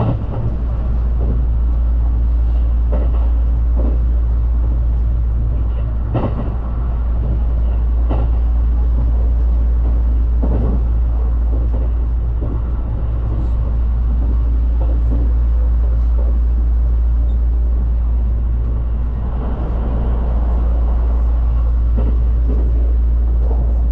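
Haruka limited express electric train running, heard from on board: a steady low rumble with occasional short knocks.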